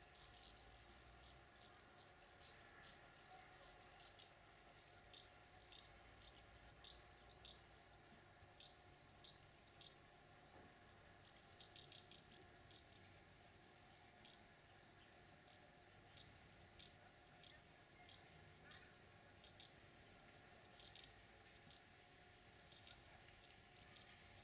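Small birds chirping: many short, high calls at an uneven pace, a few every second, over a faint steady hum.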